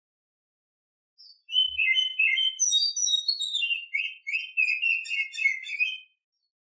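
Female oriental magpie-robin (kacer) singing: a rapid, varied run of clear whistled and chattering notes, starting about a second in and lasting about five seconds before stopping.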